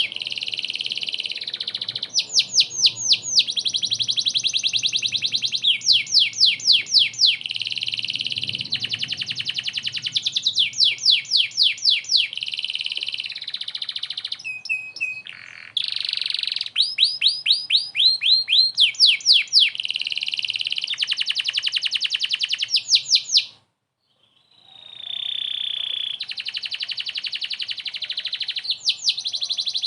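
Domestic canary in full song ('gacor'): fast trills of rapidly repeated sweeping notes, phrase after phrase. The song breaks off for about a second roughly three-quarters of the way through, then resumes.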